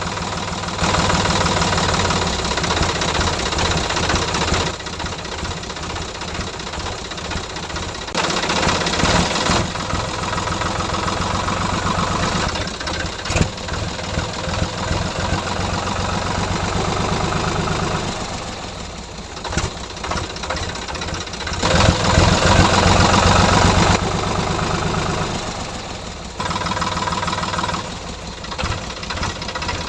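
Small engine of a DIY mini tractor running with a knocking beat, its loudness jumping up and down abruptly several times.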